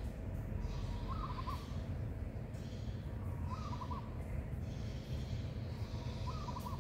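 A bird calling three times, each a short phrase of a few notes about two and a half seconds apart, over a steady low outdoor rumble.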